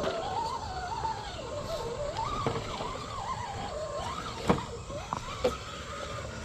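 Electric motor and drivetrain of a Traxxas TRX-6 6x6 RC crawler whining, the pitch rising and falling with the throttle as it crawls over rocks. A few sharp knocks break in, the loudest about four and a half seconds in.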